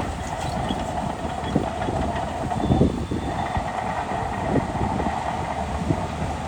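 Heavy diesel earthmoving machinery running steadily, with irregular metallic clanks and knocks over the engine's rumble.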